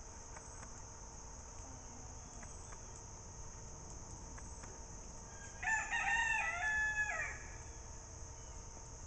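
A bird's single drawn-out crowing call of nearly two seconds, a little past halfway through, over a steady high chirring of insects.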